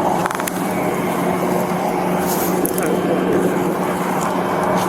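Steady vehicle engine hum with road noise, a constant low tone under an even rushing noise, and a brief rattle of clicks about a third of a second in.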